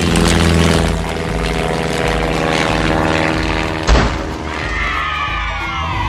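Cartoon background music with a steady beat; about four seconds in, a sharp boom or crash hits, followed by several falling, whistle-like tones sliding down in pitch.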